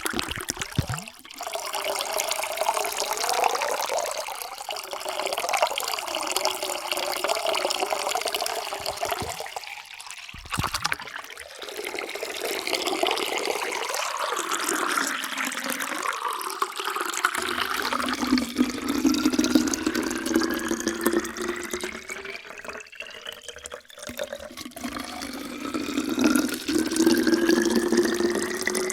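Water pouring into a container, splashing and gurgling, with a resonant tone that rises steadily in pitch as the vessel fills. The pouring breaks off briefly about a third of the way in and again near the three-quarter mark, then carries on.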